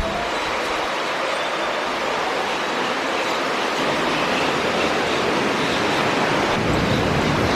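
Steady rushing noise with no clear pitch, growing slowly louder.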